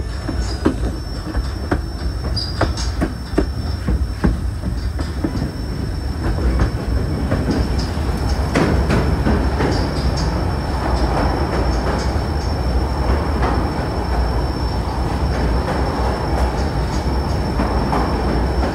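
White Pass & Yukon Route narrow-gauge train rolling on the rails: a steady low rumble with sharp wheel clicks over the rail joints in the first few seconds. The rumble grows louder and denser from about six seconds in, with a thin, steady high wheel squeal throughout.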